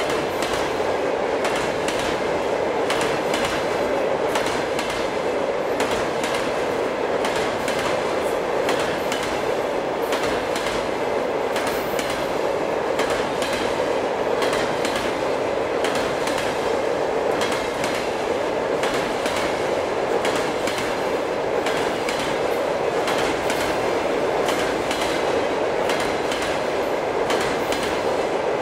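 Freight wagons of a loaded train, enclosed double-deck car carriers, rolling steadily past over a steel truss railway bridge: a continuous rumble with rapid clickety-clack of wheels over rail joints.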